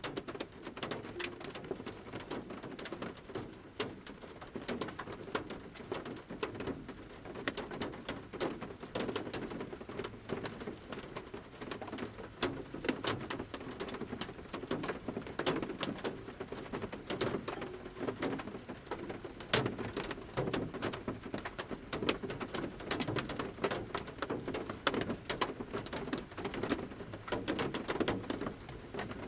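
Large raindrops dripping from the tree canopy onto the metal roof of a camper van, heard from inside as irregular taps and pats over a soft steady patter of light rain.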